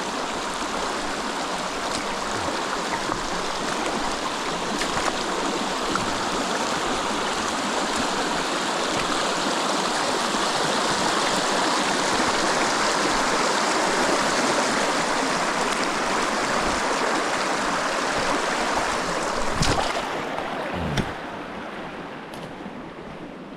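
Creek water rushing steadily close by, swelling louder through the middle and easing off near the end, with a couple of short knocks near the end.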